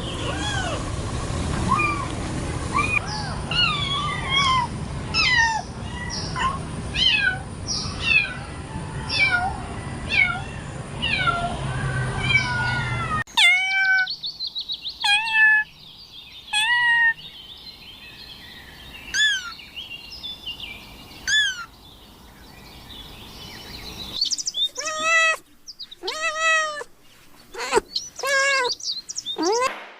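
Cats meowing: many short overlapping meows over background noise in the first half. After an abrupt change about 13 seconds in come fewer, separate meows, with a quick run of repeated meows near the end.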